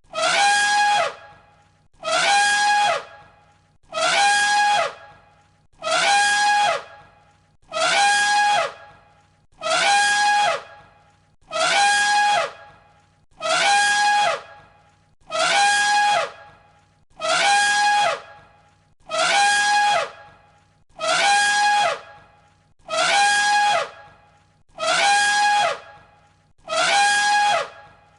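An elephant's trumpet call, looped: the same brassy, pitched blast of about a second, falling in pitch at its end, repeats identically about every two seconds.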